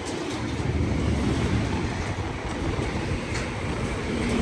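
Train running through the station with a steady low rumble, and a faint click or two near the end.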